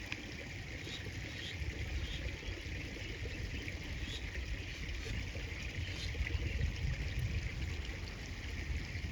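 River water flowing and lapping steadily, with a continuous low rumble underneath and a few faint high chirps.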